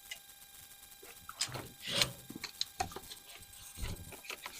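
Scattered light clicks and brief scrapes of small parts being handled as a forward grip is positioned on an AR-15 handguard.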